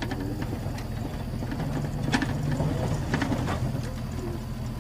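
Land Rover's engine running steadily, a low hum, with a few brief clicks about two and three seconds in.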